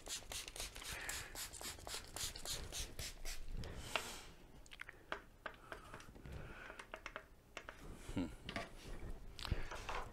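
Hand scrubbing on mobility-scooter parts: quick rubbing strokes, about three a second, for the first few seconds, then a sharp click about four seconds in and scattered lighter scrapes and clicks.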